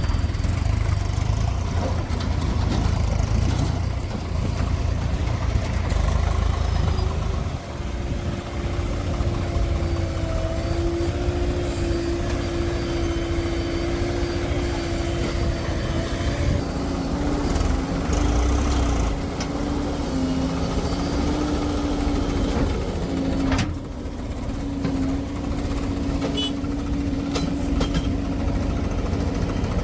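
Heavy diesel engine of earthmoving machinery running steadily with a deep rumble, its note shifting lower about halfway through. There is one sharp knock a little over 23 seconds in.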